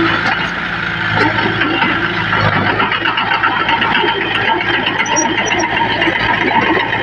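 Diesel engine of heavy earthmoving machinery running steadily, with a dense metallic rattling over it.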